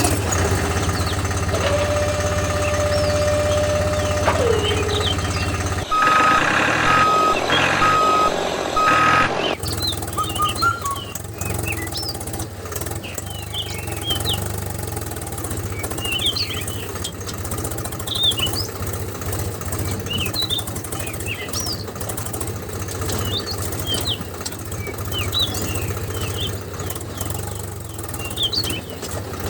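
A steady engine-like hum with a held tone that drops in pitch about four seconds in. Then about three seconds of an evenly pulsed beeping like a reversing alarm, followed by birds chirping over a low steady hum.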